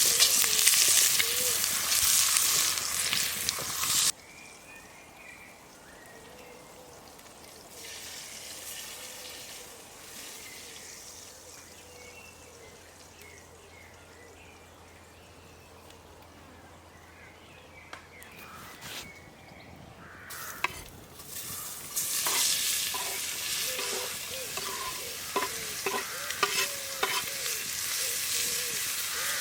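Food sizzling as it fries in a pot over a campfire. The loud sizzle cuts off abruptly about four seconds in, leaving a much quieter stretch. Loud sizzling with light clicks returns about three-quarters of the way through.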